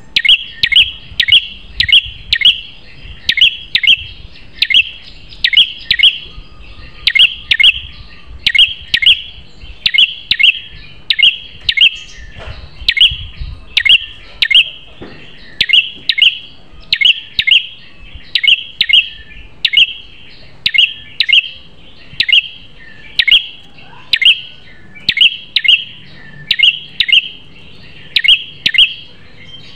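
Red-headed prenjak (prenjak kepala merah) calling: loud, sharp, high chirps repeated over and over, about one to two a second in short groups.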